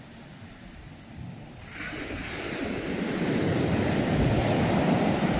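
Ocean surf: a low rumble, then a wave breaks about two seconds in, and its rushing wash swells to its loudest near the end.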